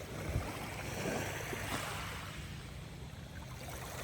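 Shallow seawater lapping and sloshing at the shoreline, a steady wash with a low rumble underneath.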